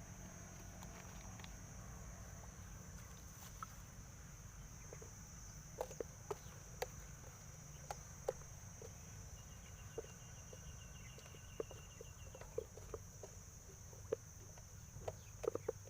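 Steady high-pitched insect chirring, with scattered small clicks and taps starting about six seconds in.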